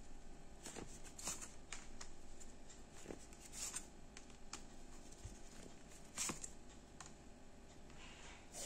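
Faint, scattered clicks and taps of Lenormand fortune-telling cards being shuffled and laid out on a table.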